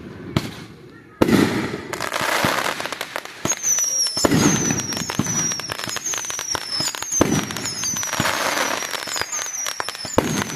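Fireworks going off: a sudden loud bang about a second in, then dense crackling pops. From the middle on, a string of short whistles, each falling in pitch, repeats about once a second.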